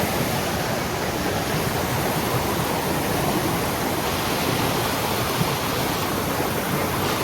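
Rushing water of a rainforest river or waterfall pouring over rocks: a steady, loud hiss that begins and ends abruptly.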